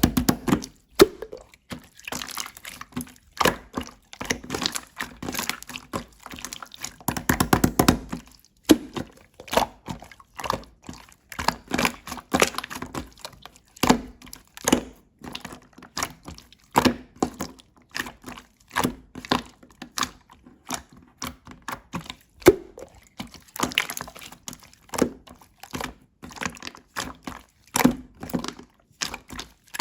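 Hands squishing, pressing and poking slime, making an irregular run of sticky clicks and pops, with a few denser bursts of rapid crackling.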